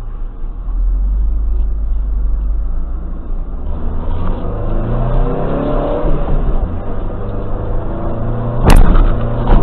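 Car engine and road rumble from a moving car, the engine note rising as it accelerates around the middle. A single sharp bang comes near the end.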